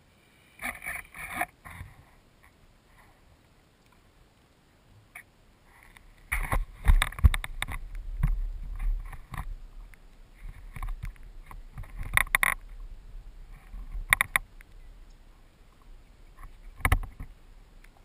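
Water splashing and sloshing in irregular bursts against the hull of an electric RC speed boat, heard from a camera mounted on the boat, with no motor running.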